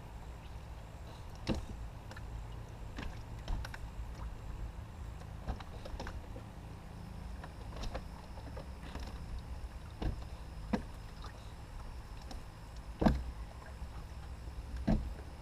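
Scattered knocks and clicks in a small fishing boat over a steady low rumble, the sharpest knock about 13 seconds in and another near the end.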